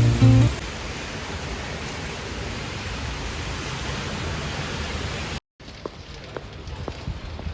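Guitar music ends, then a steady, even hiss of noise runs for about five seconds and cuts off abruptly. A quieter stretch with a few faint ticks follows.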